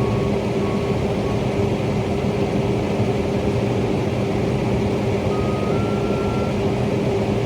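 A vehicle engine running with a steady drone. Early on there is a run of short, regularly spaced electronic beeps, which stop about a second in.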